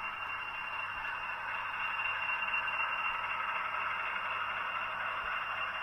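N gauge model train running on the layout: a steady whirring hiss with a faint low hum underneath.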